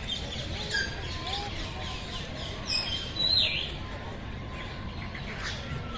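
Several caged birds chirping and calling at once, short whistled notes overlapping, with one louder call sweeping down in pitch a little past halfway.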